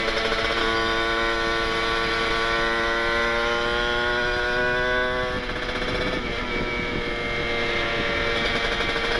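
Kawasaki Ninja 150RR's two-stroke single-cylinder engine running through an aftermarket Aitech carbon-kevlar exhaust with an R9 expansion chamber, its pitch climbing steadily under acceleration for about five seconds. The pitch then drops away and the note goes rougher for a moment before pulling steadily again near the end.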